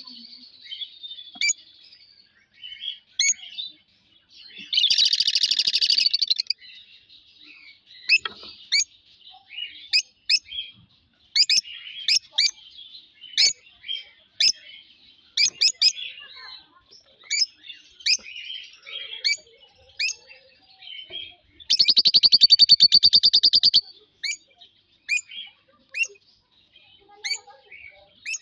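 Pet bird calling: a run of short, sharp, high chirps, broken by two longer buzzy trills, about five seconds in and again near 22 seconds, the later one the loudest.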